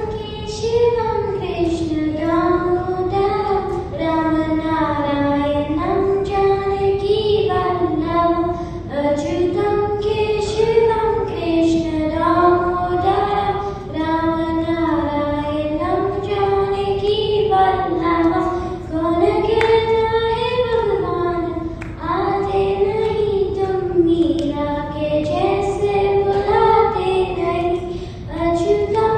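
A young solo voice singing a melody that rises and falls in phrases of about two seconds.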